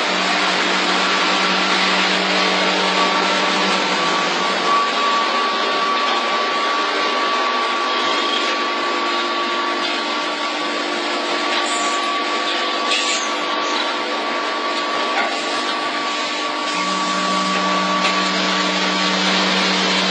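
Bagging machine for pet food running: steady machine noise with a constant whine. A low hum drops away about four seconds in and comes back near the end.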